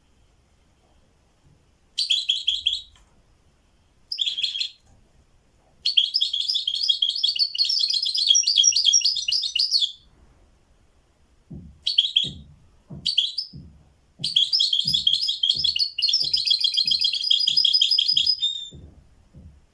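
A songbird singing in bursts of fast trills: short phrases and two long runs of about four seconds each, with pauses between. This is a learned song copied from a tutor bird. A soft, regular low tapping, a little under two a second, runs under the second half.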